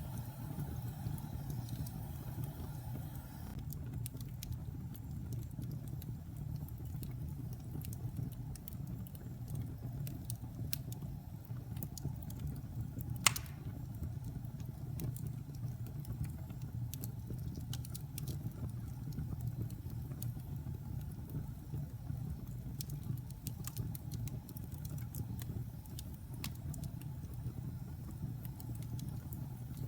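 Wood fire burning in a fireplace: a steady low rumble with scattered crackles and one sharp pop about thirteen seconds in.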